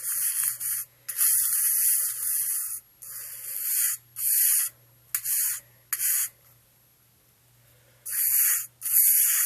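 Sand being scrubbed down into carpet pile with a hand tool: repeated scratchy rubbing strokes, with a pause of about two seconds shortly after the middle.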